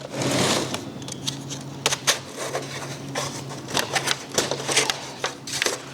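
Thin plastic seedling flats (cell trays) being handled and sorted: a run of light plastic clicks, crackles and rattles, with a rustling swell in the first second.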